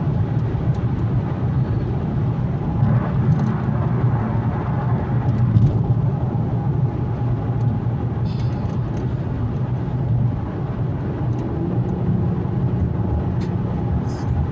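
Steady engine and road noise heard from inside the cabin of an Infiniti Q70 cruising at a constant pace: a low drone with tyre and road noise above it.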